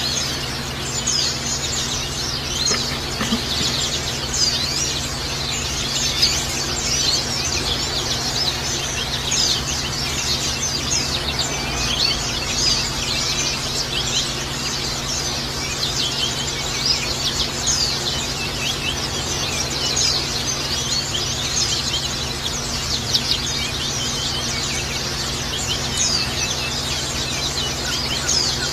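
Pleci (white-eye) birds twittering continuously in rapid, high-pitched chirps, over a steady low hum.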